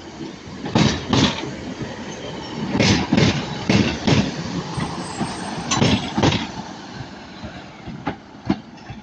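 Train wheels clattering over track joints as a train moves slowly through the station: loud knocks, mostly in pairs about a third of a second apart, repeating every second or two over a low rumble.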